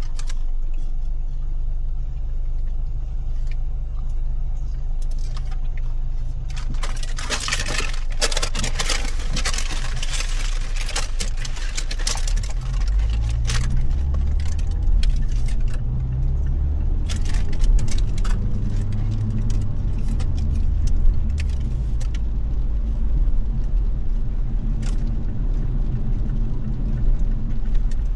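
A car driving on a wet road at night: steady engine and road rumble. A rushing hiss runs from about 7 to 12 seconds in, and from about 13 seconds in the engine note rises and shifts as the car picks up speed. Scattered light clicks are heard throughout.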